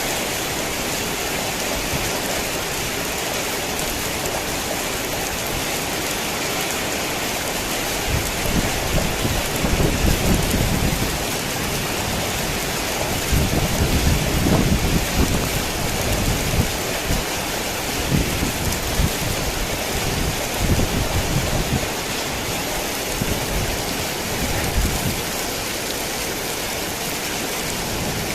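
Heavy rain falling with a steady hiss. From about eight seconds in until near the end, low rumbles of thunder swell and fade several times over it.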